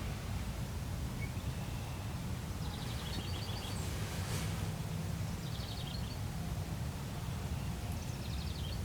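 A songbird sings short, high, trilled phrases three times, a few seconds apart, over a steady low background rumble.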